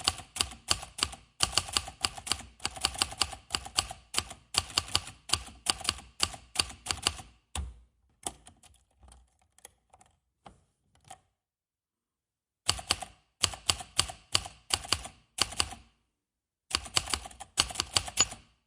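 Quick, irregular clicks in runs, like typing on a keyboard. They stop for about five seconds in the middle, then start again.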